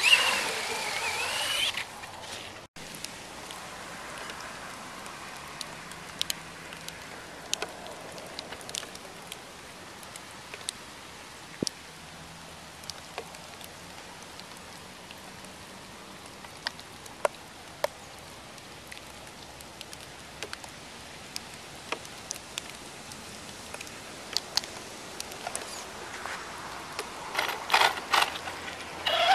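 Electric R/C monster truck's motor whining as it accelerates for about two seconds at the start and again near the end, the whine rising in pitch; in between, a long steady quiet haze with scattered sharp ticks and clicks.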